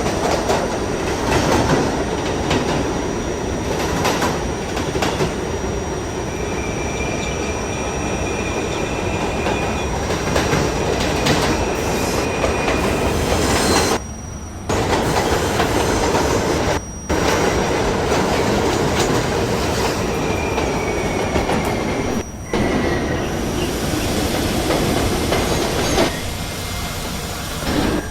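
R68A subway car running at speed between stations, heard from on board: a steady rumble with clickety-clack from the wheels and a faint, high wheel squeal twice. The noise briefly cuts out three times.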